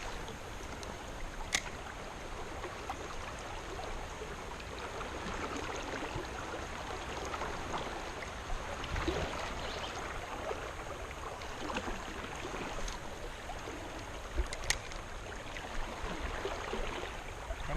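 Steady rush of flowing creek water, with a couple of sharp clicks, one near the start and one late on.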